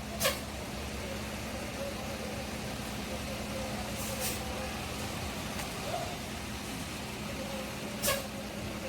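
Steady engine hum of a bus, broken three times by short, sharp hisses of air released from its air brakes: about a third of a second in, around four seconds, and near the end.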